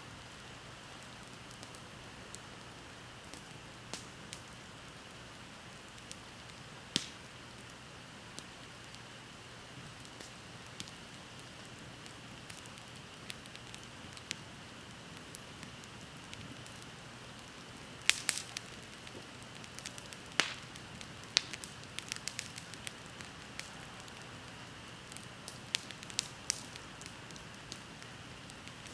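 Wood bonfire crackling: scattered sharp pops and snaps that come thickest about two-thirds of the way in, over a faint steady hiss.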